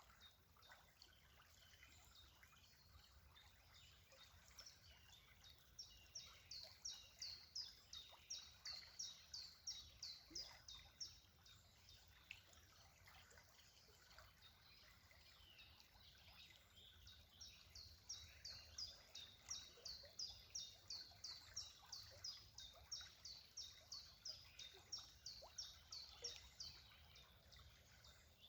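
A bird singing in two long runs of rapid, high, repeated chirps, about three to four a second, over a faint steady outdoor hiss.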